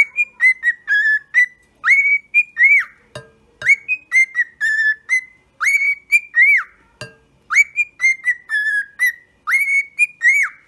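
A tune whistled in short notes that rise and fall, phrase after phrase with brief pauses between.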